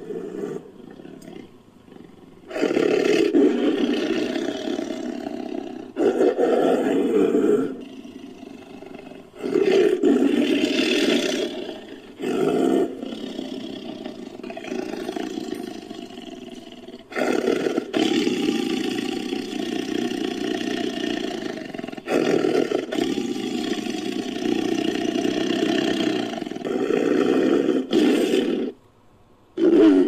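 Tiger roars and growls edited into a creature sound effect: a run of long, loud roars, about seven, each several seconds, with quieter growling between them. It cuts off suddenly near the end.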